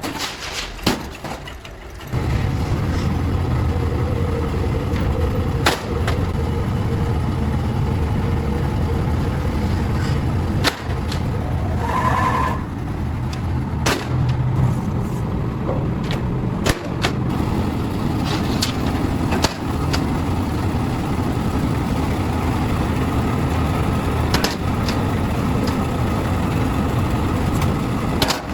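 A motor or engine running steadily from about two seconds in, with a low rumble, and scattered sharp knocks over it.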